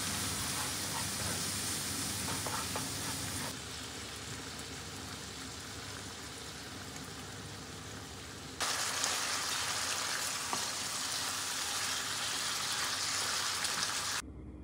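Lamb pieces and curry spices sizzling in a frying pan over low heat, stirred with a spatula, with a few light taps early on. The sizzle turns quieter a few seconds in, then louder again about nine seconds in, once the curry sauce is in the pan.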